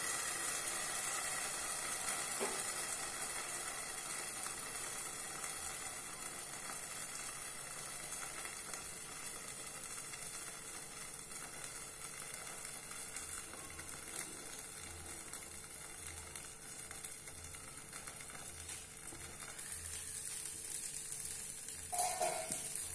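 Dosa batter sizzling steadily in a non-stick pan under a steel lid, the hiss slowly dying down. Near the end there are a few brief, louder sounds.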